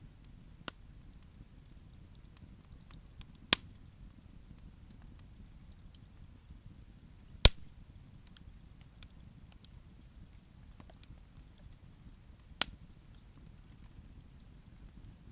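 Wood fire crackling, with scattered light ticks and four sharp pops, the loudest about halfway through, over a low steady rumble.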